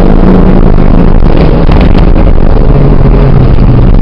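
Off-road 4x4's engine running under load as it wades through a flooded track, its pitch dipping partway through and rising again near the end, over a loud rushing noise.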